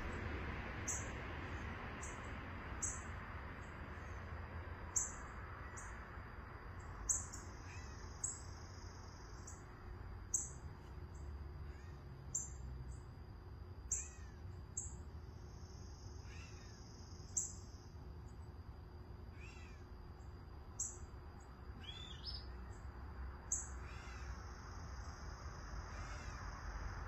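Wild birds calling: a short, very high call repeated about every two seconds, with a few lower slurred chirps, over a steady high thin tone.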